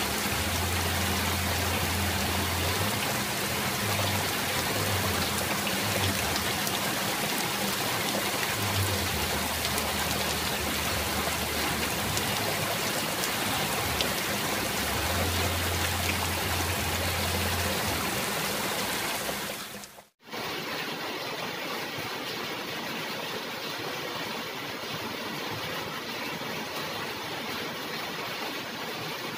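Steady rain falling, a dense, even hiss, with a low hum coming and going through the first part. About 20 s in it cuts out for a moment and returns as a quieter, thinner rain hiss.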